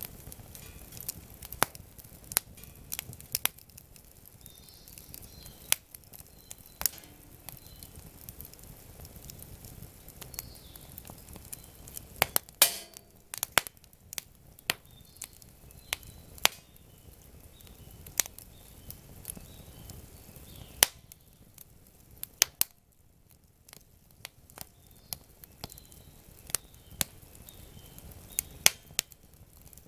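Wood campfire crackling, with sharp irregular pops and snaps of burning wood, a few louder ones near the middle.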